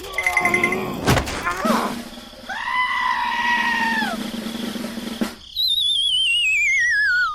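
A string of short sound effects: rapid high beeps, a sharp hit about a second in, a long held pitched call, then a warbling whistle falling in pitch near the end.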